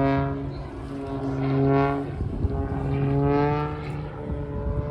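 Propeller aircraft engines droning overhead, the pitch shifting slightly and the sound swelling and fading about three times as the planes pass.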